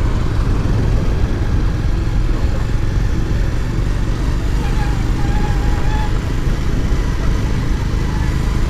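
Motorcycle running steadily on the move, its engine rumble mixed with wind noise on the microphone.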